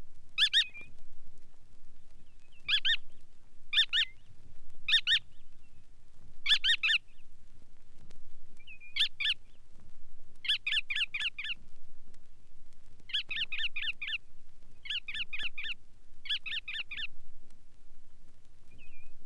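Bar-tailed godwit calling: about ten bursts of quick, repeated short notes, the later ones longer runs of about a second each. A field recording played from a vinyl record, with a faint low hum underneath.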